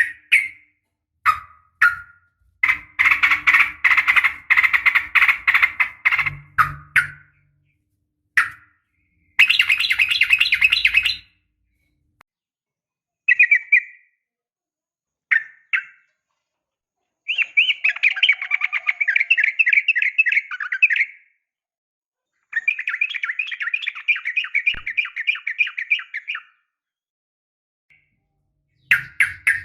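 Yellow-vented bulbul (trucukan) calling in bursts of rapid, bubbling chatter, with short single notes between the longer phrases. It is the call of a female calling a male.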